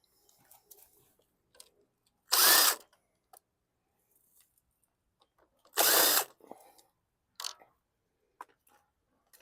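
Power drill run in two short bursts about three and a half seconds apart, each about half a second of rising and falling motor whine, then a brief weaker burst, with small clicks of handling between.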